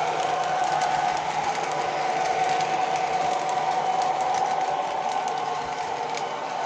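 A train running, a steady noise with a constant whine and scattered faint clicks.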